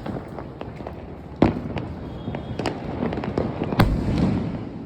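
Aerial firework shells from a multi-shot cake bursting: two loud bangs, about a second and a half in and near the end, with smaller pops and crackling between them.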